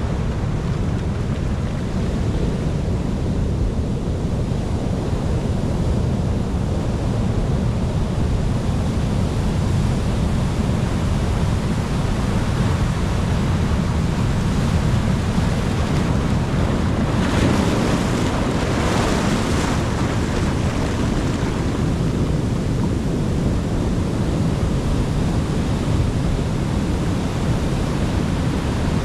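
Ocean waves breaking and washing on the shore in a steady deep rush, with wind rumbling on the microphone. One wave breaks with a brighter hiss a little past the middle.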